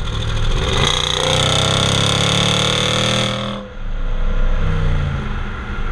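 Range Rover Sport SVR's 5.0-litre supercharged petrol V8 at full-throttle acceleration, heard from inside the cabin. The engine note climbs in pitch for about three seconds, then drops away sharply about three and a half seconds in. The engine carries on at a lower, steadier note.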